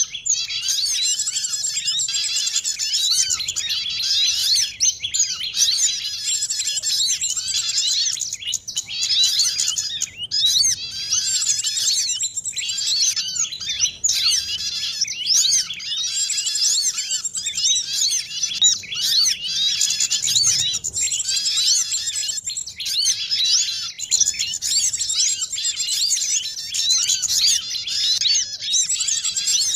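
A dense, unbroken chorus of many small songbirds: rapid high-pitched chirps, twitters and short trills overlapping one another. It is a bird-lure recording (suara pikat) of small birds such as sunbirds, prinias and white-eyes, used to draw wild birds in for trapping.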